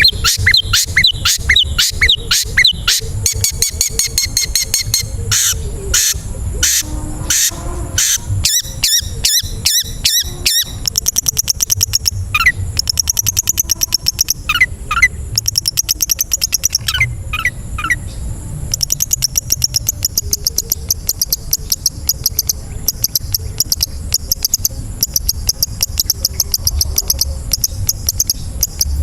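Long-tailed shrike (cendet) in full song: a continuous, fast, varied run of high chattering trills, rapid clicking notes and short whistles.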